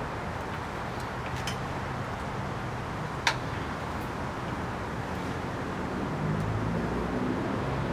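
Steady background noise with a low engine hum that grows louder and shifts in pitch near the end, and one sharp click about three seconds in.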